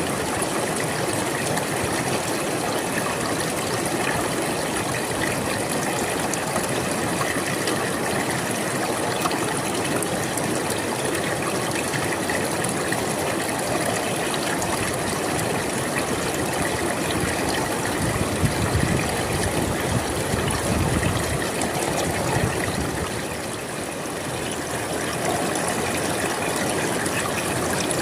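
River water flowing, a steady rush. About two-thirds of the way in it swells louder and deeper for a few seconds, then eases off briefly.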